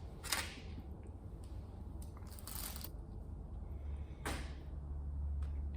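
A utensil scooping pulled pork out of a pan onto a bun, with three brief scrapes or clatters, about a second, two and a half seconds and four seconds in, over a steady low hum.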